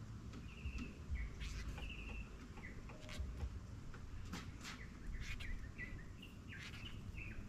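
Small birds chirping in short repeated calls, with scattered sharp clicks and a low rumble underneath.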